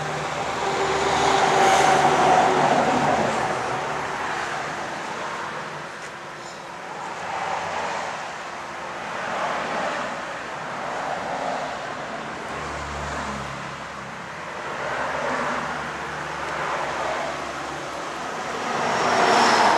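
Motor vehicle running with road and engine noise, a steady hum that swells and fades every few seconds, loudest about two seconds in and again near the end.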